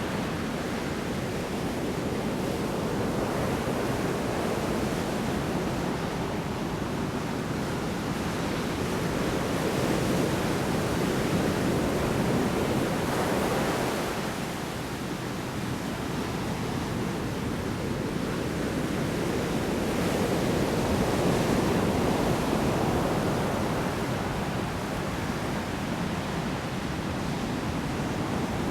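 Heavy storm surf breaking on the shore, a dense steady rush of water that swells and eases slowly as the waves come in.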